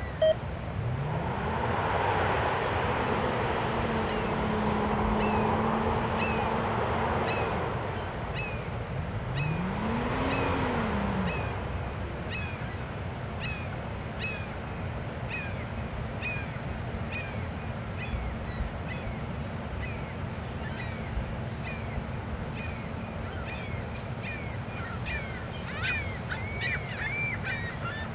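A bird repeats a short, high, downslurred chirp about one and a half times a second. In the first dozen seconds a low engine hum rises in pitch, holds, then rises and falls again under a noisy rush. Near the end geese start honking.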